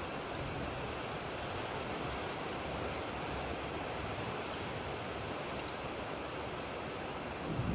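Steady rain hiss from a thunderstorm recording. A low rumble of thunder begins to swell right at the end.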